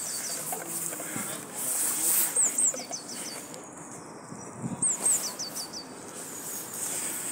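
A small songbird singing a short phrase of quick, high chirping notes, repeated about every two and a half seconds, over a steady outdoor background hiss.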